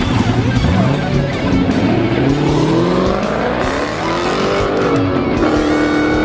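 Car engine accelerating, its pitch climbing over a few seconds and rising again near the end, with background music.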